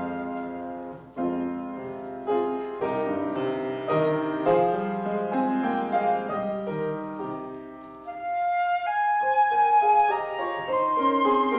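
Flute and piano playing a slow piece together: piano chords that ring and fade, with a held flute melody standing out from about two-thirds of the way through.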